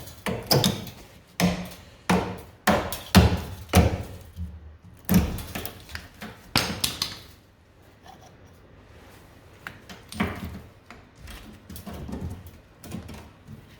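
Irregular, loud knocks and bangs, about ten in the first seven seconds, then quieter knocking and clatter, as of hammering and handling metal in the bodywork repair.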